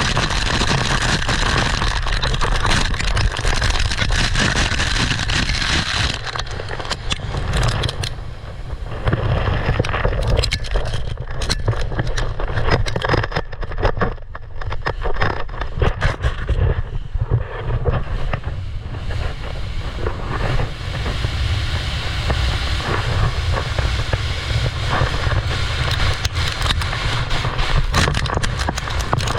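Wind buffeting the microphone in a steady low rumble, with loose volcanic gravel scraping and crackling under a board sliding down a cinder slope.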